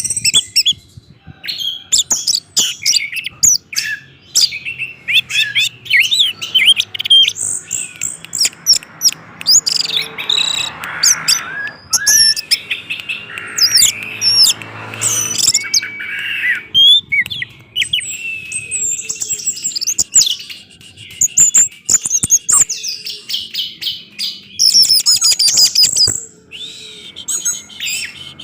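Orange-headed thrush singing a fast, varied song of high whistles, chirps and trills with hardly a pause.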